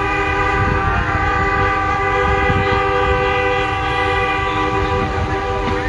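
Several truck air horns held on together in one long, steady chord of different pitches, over a low rumble.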